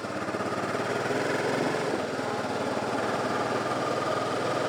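Honda Deauville NT650V's 650 cc V-twin engine running with a fast, even pulse. It grows a little louder in the first second.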